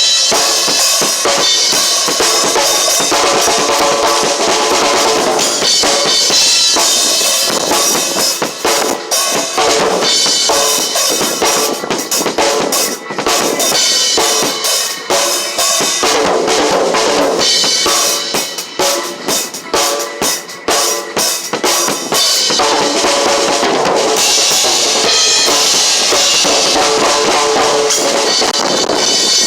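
Acoustic drum kit being played in a loud, busy groove with bass drum, snare and rimshots, cymbals washing over it in stretches.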